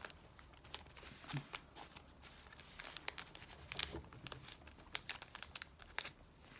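Paper crinkling and rustling in irregular crackles as paper scraps are handled and pressed onto a glued notebook page.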